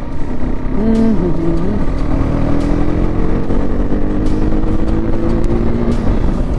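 KTM RC 390's single-cylinder engine under way in gear, heard over heavy wind noise on a helmet-mounted action camera. About a second in its note dips briefly and recovers, then climbs slowly for several seconds as the bike pulls.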